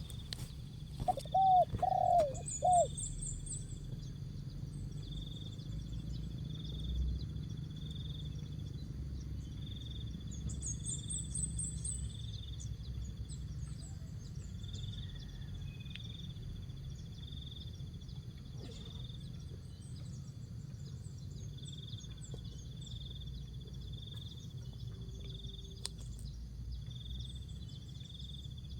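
Spotted dove (tekukur) cooing a short phrase of about four notes about a second in. Small high-pitched bird chirps and an evenly repeating high pulse run on over a steady low hum for the rest of the time.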